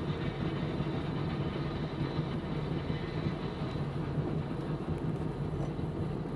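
Steady road and engine noise of a car driving at highway speed, with an even low hum and no separate knocks or bangs.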